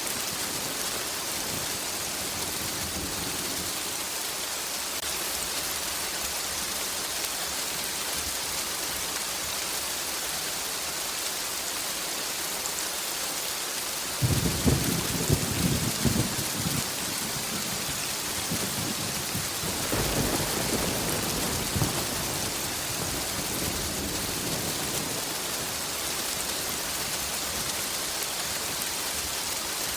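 Steady heavy rain hissing, with a sudden crack and rumble of thunder about halfway through and a softer rumble of thunder a few seconds later.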